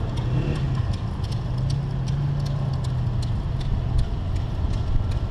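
Engine running steadily with a low hum and a regular clicking, about two to three clicks a second.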